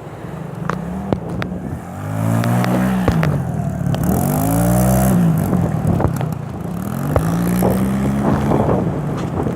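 Kawasaki 110 dirt bike's small single-cylinder four-stroke engine revving up and down about three times, its pitch rising and falling with each twist of the throttle.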